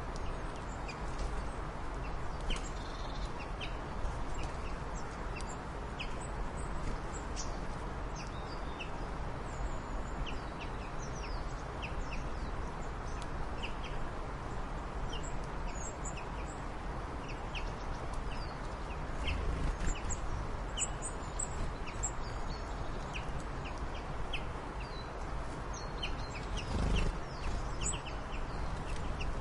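Birds chirping: many short, high calls scattered over a steady background hiss, with a couple of brief low thumps.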